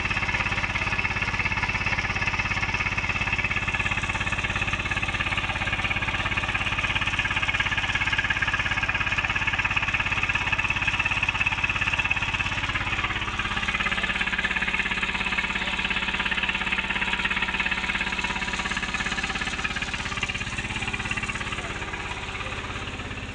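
Tractor's diesel engine running steadily. About halfway through its tone shifts, and it grows quieter near the end.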